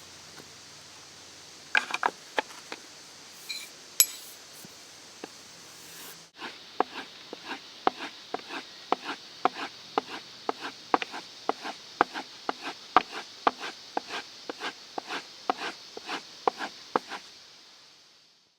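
A 2-inch framing chisel being sharpened by hand with quick back-and-forth strokes, each giving a short sharp tick, about three a second. A few scattered clicks and a brief metallic ring come before the steady strokes begin.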